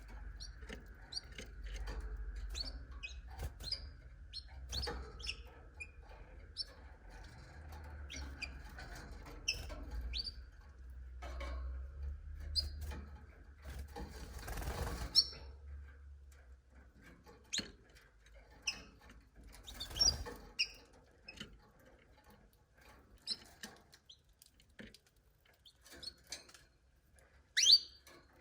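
Canaries giving short, scattered chirps and call notes rather than a sustained song, mixed with clicks and rustles. A low hum underlies the first half and stops about halfway through.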